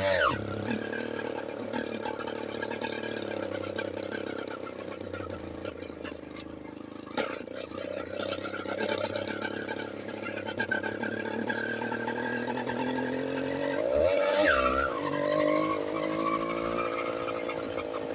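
Small motorized-bicycle engine running under way, with a steady drone. About fourteen seconds in, its pitch rises sharply as it revs up, then settles.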